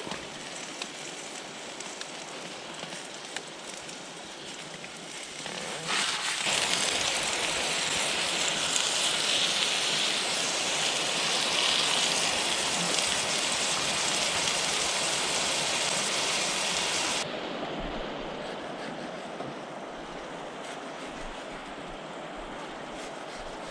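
Steady rain falling, a continuous hiss. For a long stretch in the middle it is louder and hissier, starting and stopping abruptly.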